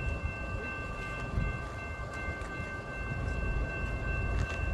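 CSX freight train rolling past with a deep, continuous rumble. Over it is a steady high-pitched whine made of several held tones, with a few sharp clicks near the end.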